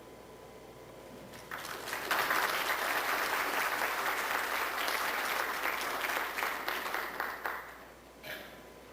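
Audience applauding: clapping starts about a second and a half in, holds steady for several seconds, then dies away near the end.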